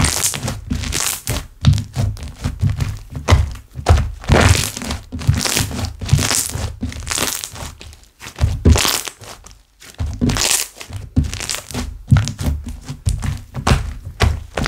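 Slime squished and pressed by hand: repeated sticky squelches and crackling pops of air bubbles, about one or two a second, with a short pause a little past halfway.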